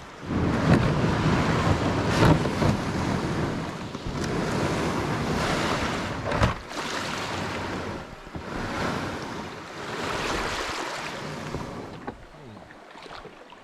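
Wind buffeting the microphone over sea water washing around a kayak: a loud rushing noise that swells and eases every couple of seconds, with two sharp knocks or splashes, one early on the swell and one midway.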